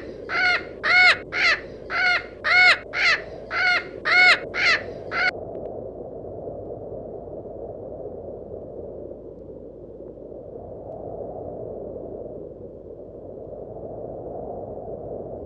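A bird giving a rapid series of about ten harsh, caw-like calls, about two a second, which stop about five seconds in. After that, only a steady low background hum.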